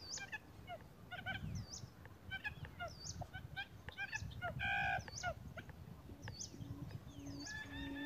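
Birds calling: a quick run of short chirps and hooked whistles, a loud harsh call a little past the middle, and low, evenly repeated hoots starting near the end.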